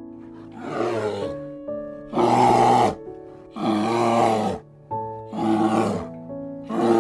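Brown bear growling in a run of five calls, each about a second long and coming roughly every second and a half, over soft piano music.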